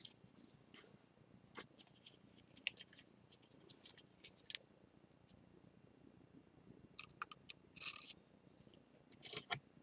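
Faint handling sounds as gloved hands work a broken ceramic bowl during kintsugi repair: scattered small clicks and light scrapes. A brief rustle comes near the end, followed by a slightly louder rustle and knock.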